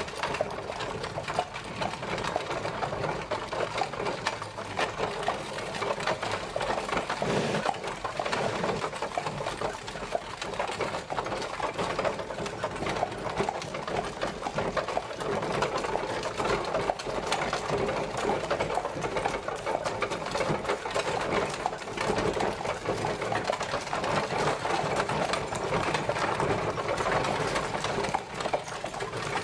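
Horse-drawn carriage travelling, its wheels and wooden body rattling in a steady rapid clatter.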